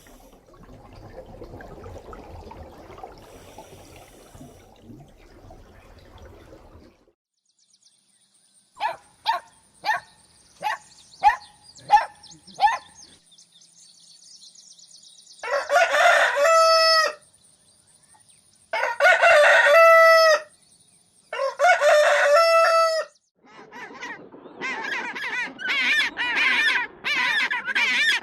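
Chicken calling: a run of about seven short clucks, then a rooster crowing three times, each crow about a second and a half long. A dense stretch of overlapping calls follows near the end.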